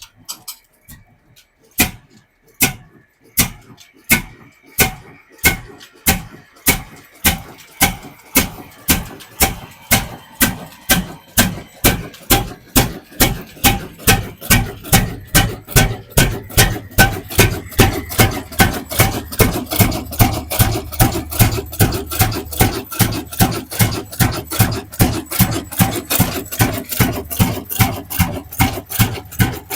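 Old diesel engine coming to life from a cold start: loud separate firing knocks, slow at first and quickening steadily as the engine picks up speed, with a low running hum building under them.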